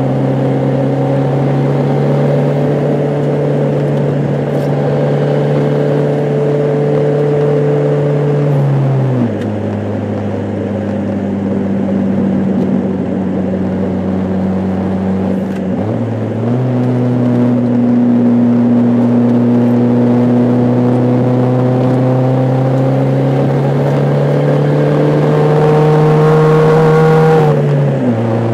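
Car engine droning steadily while driving, heard from inside the cabin over road noise. Its pitch drops suddenly about nine seconds in, climbs back about seven seconds later, and drops again near the end.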